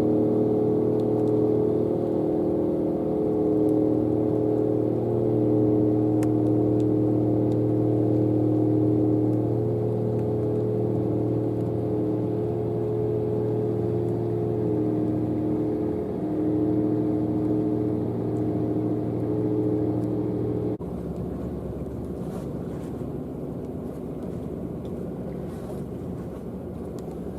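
Diesel engines of a high-speed catamaran passenger ferry running steadily: a low hum with several held tones. About twenty seconds in it changes abruptly to a quieter, rougher rush of engine and water noise.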